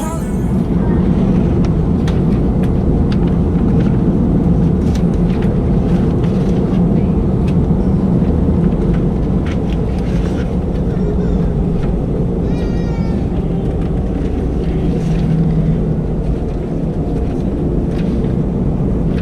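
Steady cabin noise inside an Airbus A320-216 with its CFM56 engines running, with scattered clicks and rattles and a brief high warbling squeak about 13 seconds in.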